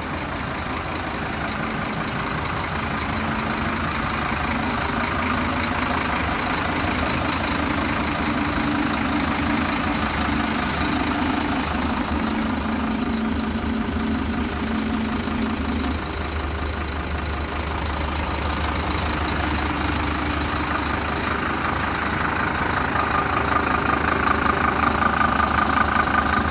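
Scania P230 truck's diesel engine running steadily at idle. About sixteen seconds in its tone shifts, and it grows louder over the last few seconds.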